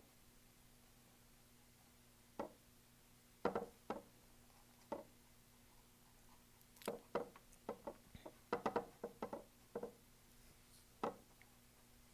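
Light, irregular taps and knocks of a paintbrush dabbing paint onto a stretched canvas. A few are spread apart at first, then a quick cluster of about a dozen comes in the second half, with a last tap near the end.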